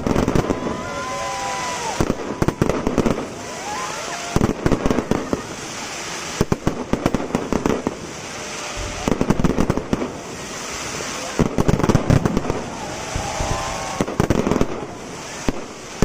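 Fireworks display: shells bursting in clusters of sharp bangs every couple of seconds, over a steady crackling.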